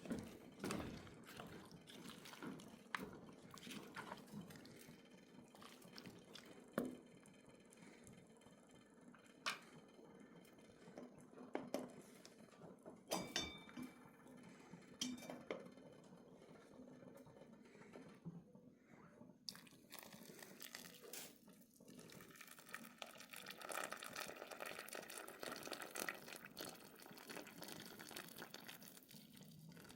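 Quiet liquid sounds, dripping and pouring, with scattered small knocks and clinks through the first half; from about 20 seconds in, a steadier, fuller liquid sound.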